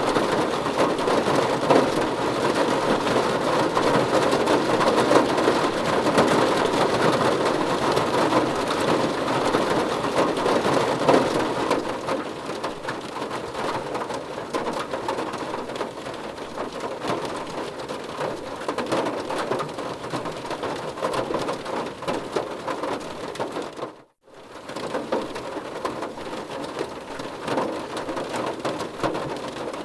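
Steady heavy rain pattering on a surface, a dense crackle of drops that eases somewhat after about twelve seconds. Near three-quarters of the way through, the sound cuts out for a moment and comes back.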